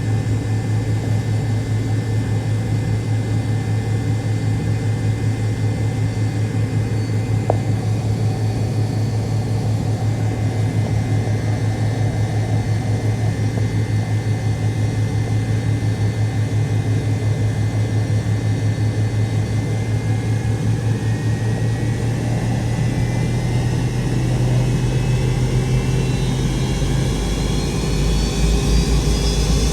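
McDonnell Douglas MD-88's rear-mounted Pratt & Whitney JT8D turbofans heard inside the cabin: a steady hum with a pulsing drone, then, about two-thirds of the way through, a whine that rises in pitch as the engines spool up for takeoff thrust.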